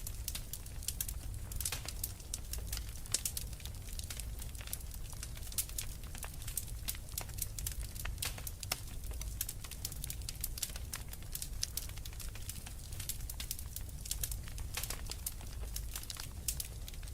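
Wood fire crackling: a steady stream of small, sharp pops and snaps, with a steady low rumble underneath.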